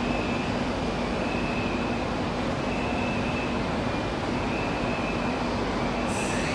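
Seibu 20000 series electric train standing at a platform: a steady hum and noise from the stopped train, with a high tone that comes and goes. A short hiss of air comes about six seconds in.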